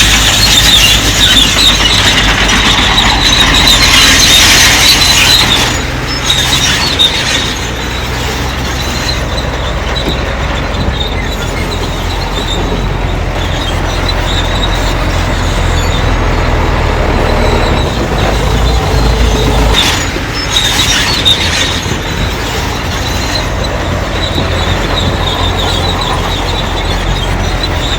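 Crawler bulldozer working: its diesel engine runs under load with high-pitched metallic squealing from its steel tracks. The squeal is loudest for the first five seconds and comes back briefly about twenty seconds in.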